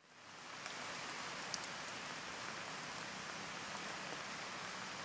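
Steady rain falling, fading in at the start, with a few sharp drip ticks standing out above the hiss.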